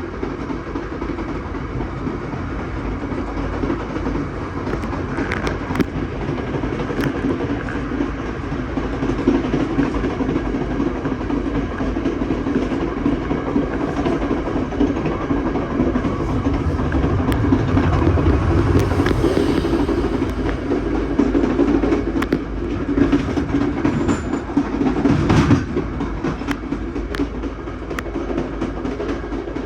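Budd stainless-steel passenger train rolling along the rails: a steady rumble with scattered clicks of the wheels over the track. It grows louder for a few seconds past the middle, with a short loud burst a little later.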